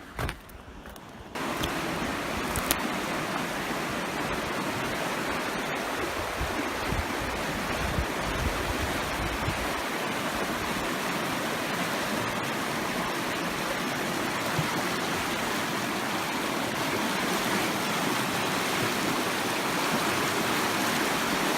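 Mountain creek rushing steadily, cutting in abruptly about a second in after a brief thump.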